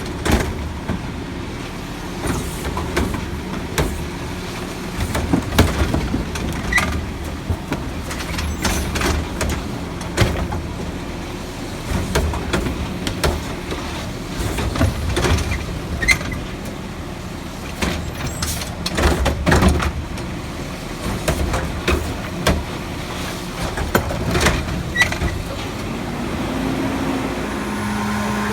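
Garbage truck at work: its diesel engine runs under a string of sharp metallic clanks and bangs, with a rising tone from the truck near the end.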